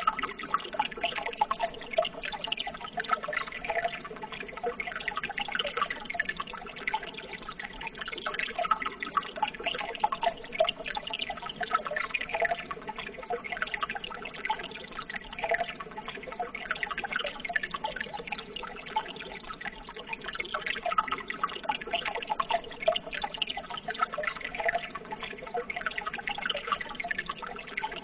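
Running water trickling and babbling steadily, with many small splashes and drips.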